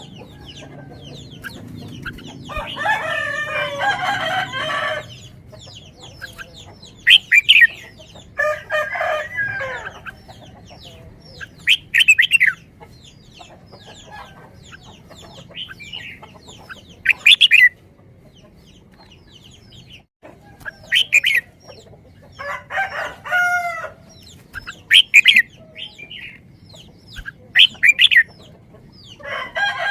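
Birds calling: four longer pitched calls of a second or two each, with many short, sharp high calls in between.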